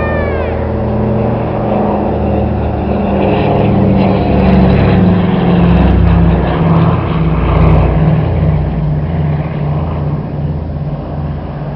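Engines of a Douglas aircraft in a display flypast: a steady drone that grows louder, is loudest about halfway through, then fades as it moves away.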